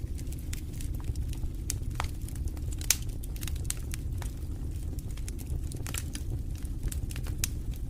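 Fire burning in a fireplace, crackling with scattered sharp pops, one louder pop about three seconds in, over a steady low rumble.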